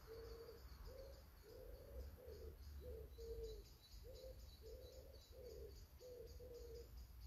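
Faint outdoor ambience: a bird giving a long run of short, low notes, about one and a half a second, over an insect chirping steadily at about four a second.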